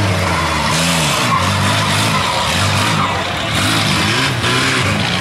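Several minivan engines in a demolition derby revving up and down at once, each pitch rising and falling repeatedly, over a steady noisy rush.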